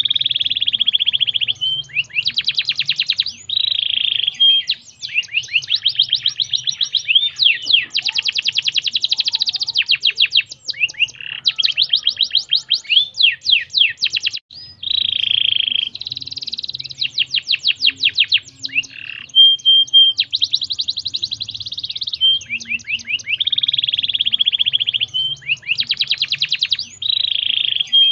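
Domestic canary singing continuously: fast trills of rapidly repeated sweeping notes alternate with dense rolling phrases and short steady whistles, with only brief breaks between phrases.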